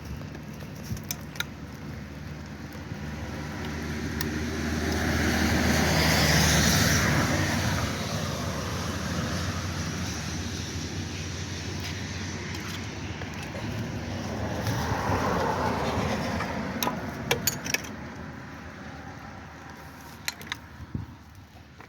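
A car's engine and tyre noise that swells louder twice, with a few sharp clicks along the way.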